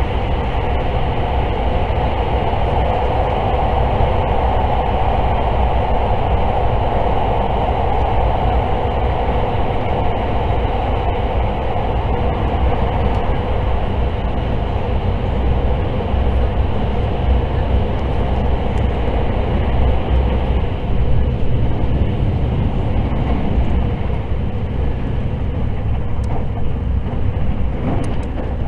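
Steady roar and rumble inside the passenger car of an electric limited express train running at speed through a tunnel. The roar thins out near the end as the train comes out into the open.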